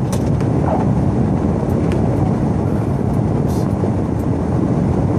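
Pickup truck driving through fresh snow, heard from inside the cab: a steady, loud rumble of engine and tyres.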